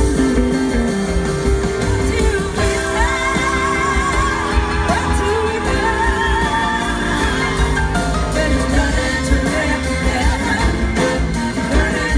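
Live band music from an instrumental stretch of the song, with bass and drums underneath and a wavering lead melody line over them from a few seconds in.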